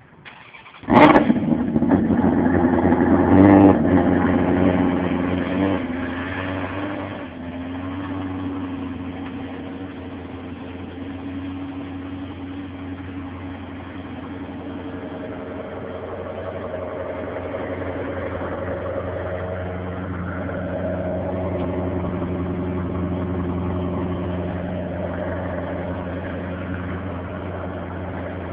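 Maserati GranTurismo S V8 engine starting up about a second in, running loud for a few seconds, then easing down into a steady idle through the exhaust.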